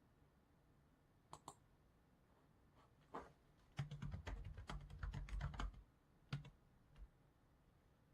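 Faint typing on a computer keyboard: a quick run of keystrokes lasting about two seconds in the middle, with a few single clicks before and after, two of them close together about a second in.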